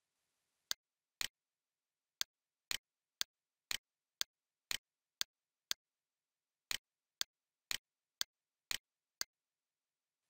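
Computer mouse clicking: single sharp clicks about two a second, sixteen in all, with two short pauses.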